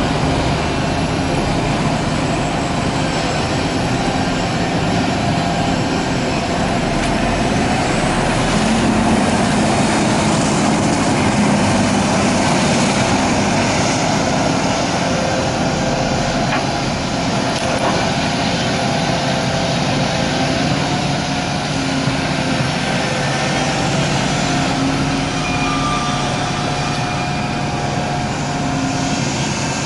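Large diesel excavator working, its engine running steadily with the pitch rising and falling a little as the load changes.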